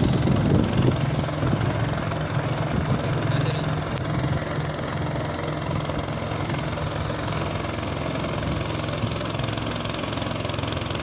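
An engine running steadily with an even low hum, a little louder in the first couple of seconds.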